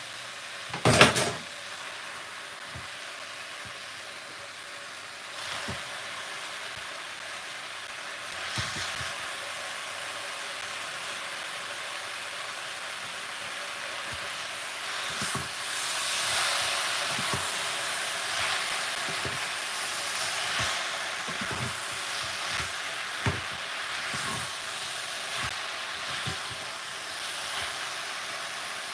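Spinach and vegetables sizzling and steaming in a hot metal pot while a wooden spoon stirs them, knocking against the pot now and then. There is a louder knock about a second in, and the sizzle grows louder about halfway through.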